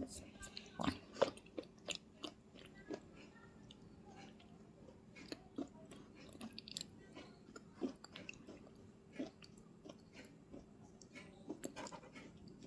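A person chewing crunchy food close to the microphone, with scattered short crunches at an uneven pace and a few louder bites along the way.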